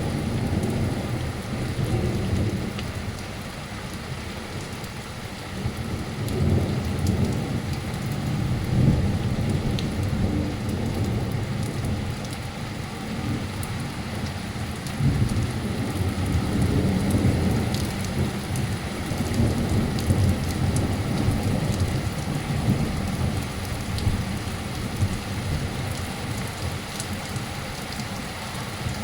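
Torrential rain and hail pouring down, with long rolls of thunder rumbling under it and swelling several times.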